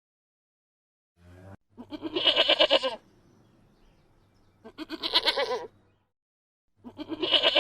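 Three wavering bleats from a goat or sheep-type farm animal, each about a second long and about two seconds apart, after a second of silence.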